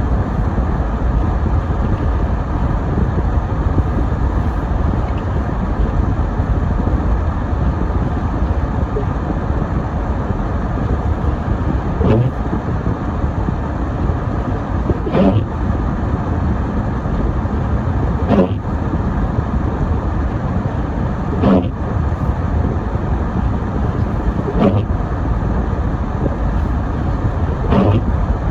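A car driving on a snowy road: steady engine and road rumble. From about halfway through, a short sharp sound comes back about every three seconds.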